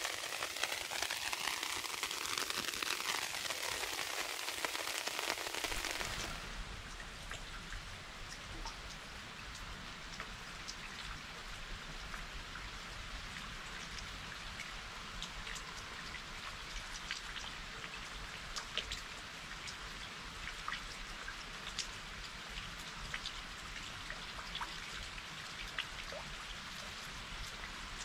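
Rain falling steadily. For the first six seconds or so it is a dense, louder hiss; after that it is softer, with individual drops ticking.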